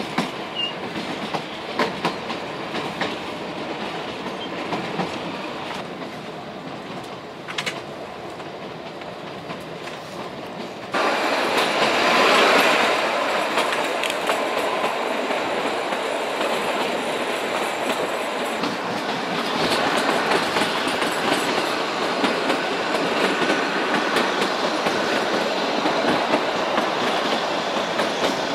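Narrow-gauge Kalka–Shimla toy train running, its wheels clicking over the rail joints under a steady rattle of the carriage. About eleven seconds in the sound jumps abruptly louder to a denser steady rush, heard from an open carriage window.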